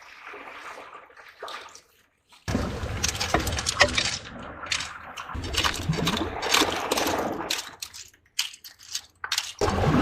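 Hard sea-snail shells clicking and clinking as rock snails are hooked out of a rock crevice and handled, over a rustling, watery noise. After about two quiet seconds, a busy run of sharp clicks and scrapes starts.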